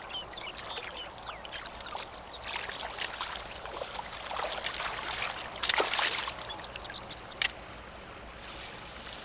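Water splashing and trickling in irregular bursts, with a louder splash about six seconds in and a sharp click about a second and a half later.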